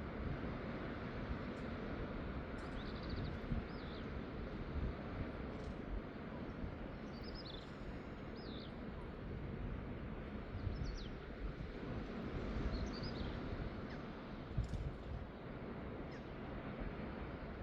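Short, high bird calls come in small clusters several times over a steady outdoor hiss, with wind buffeting the microphone low down.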